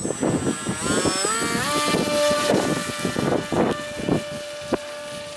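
Electric motor and propeller of a Dynam Hawk Sky RC plane whining as the throttle comes up, rising in pitch over about a second and then holding steady. Strong wind buffets the microphone in gusts throughout.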